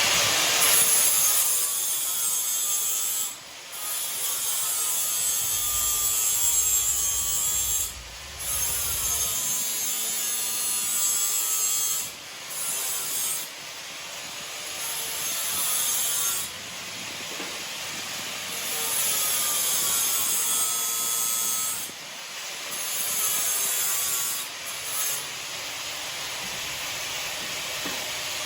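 A power abrasive tool working steel in repeated passes, a harsh rasping hiss whose pitch sags and recovers under load, broken by short pauses between passes.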